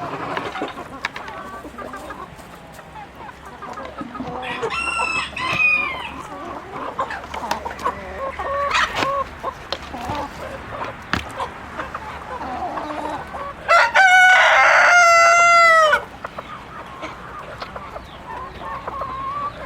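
Chickens clucking, with a rooster crowing loudly for about two seconds about three-quarters of the way through, after a shorter call near the start.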